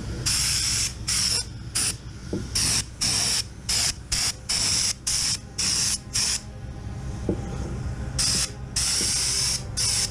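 Sandblasting gun fired in short trigger bursts of hissing air and abrasive, a dozen or so quick blasts with a pause of about two seconds after the middle. An air compressor hums steadily underneath.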